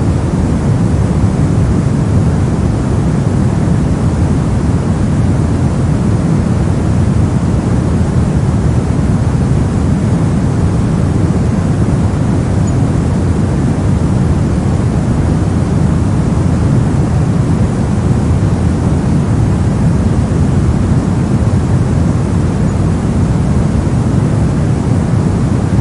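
Steady soft noise for sleep and focus: a constant deep rushing hiss, heavier in the low end than in the high, with no changes.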